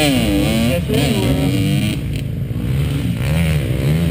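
Motocross dirt bike engines revving on the track, pitch dropping off and then climbing again as the throttle is worked.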